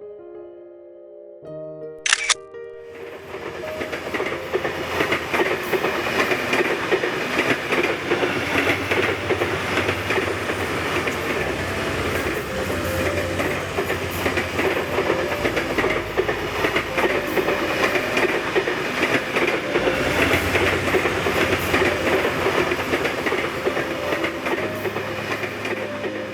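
Train running on its rails: a loud, steady rattle of wheels and carriages that starts abruptly about two seconds in, just after a short sharp sound. Soft background music plays underneath.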